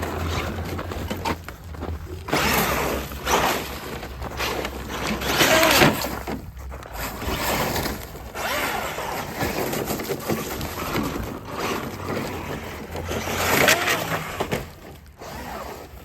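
Traxxas Maxx Slash RC truck driving over rough grassy ground, its motor and tyres coming in irregular surges of noise as it accelerates and lets off.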